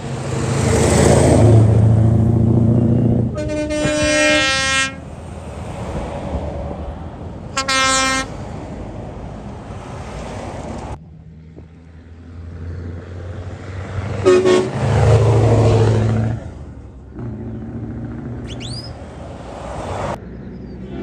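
Lorries driving past one after another, each engine rumbling loud as it goes by. Between the passes a truck horn sounds twice: a blast of about a second and a half, then a shorter one.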